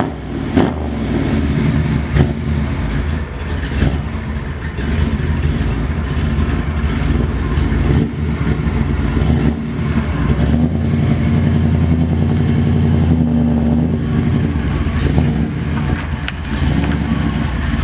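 Classic Ford Mustang fastback race car's V8 engine running just after a start. It gives three sharp throttle blips in the first four seconds, then settles to a steady low rumble as the car pulls slowly away.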